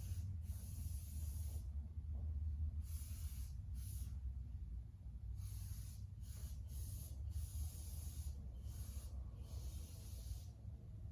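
About nine short hissing sprays, stopping and starting, each under two seconds, as the area around the tractor's pulley is cleaned. A steady low hum runs underneath.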